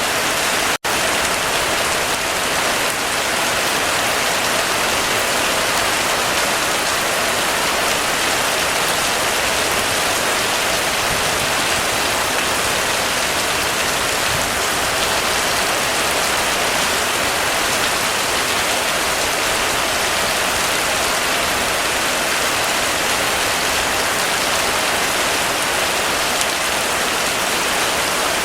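Heavy rain falling in a steady, dense hiss, with a split-second dropout about a second in.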